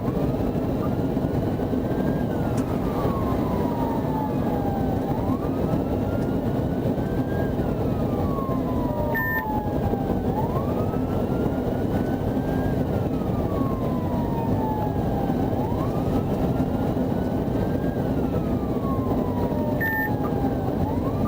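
Police car siren on a slow wail, rising and falling about every five seconds, over steady road and engine noise of the pursuing patrol car.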